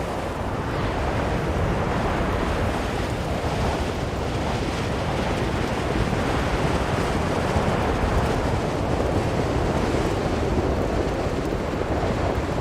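Strong blizzard wind blowing in a steady dense rush, swelling and easing slightly.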